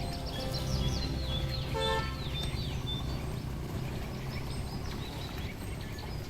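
Small birds chirping: many quick, high, falling calls, thickest in the first half, over a steady low rumble. A brief pitched call comes about two seconds in.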